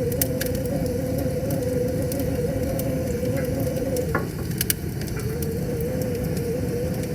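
Wood fire crackling, with scattered sharp pops, over a steady rushing river. A wavering hum runs underneath and breaks off briefly a little after four seconds in.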